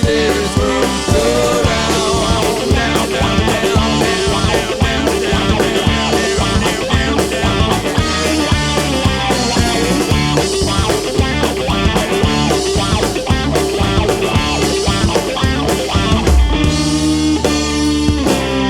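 Psychedelic rock band playing an instrumental passage with guitars and drums, a steady beat throughout; near the end the beat drops out and sustained notes ring on.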